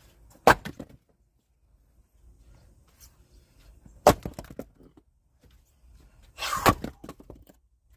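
Axe splitting firewood: three sharp strikes a few seconds apart, each followed by a short clatter of split wood, the last with a brief cracking of the wood just before the hit.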